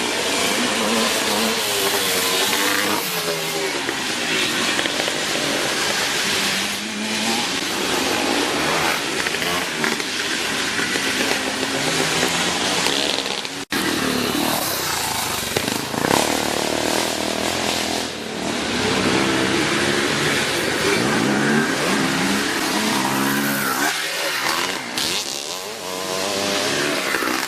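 Several classic motocross motorcycles racing, their engines revving up and down as they accelerate and pass. The sound breaks off for an instant about halfway through at a cut, then the engines carry on.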